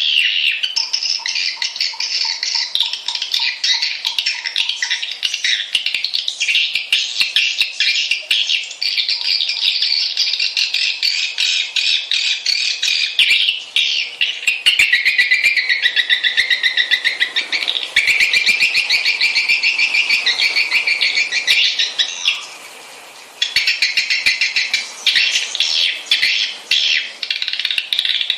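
Swiftlets twittering in a dense, continuous stream of rapid, high chirps, with one short break about twenty-two seconds in. This is a swiftlet lure and roost call, the kind played to draw swiftlets in to roost and nest.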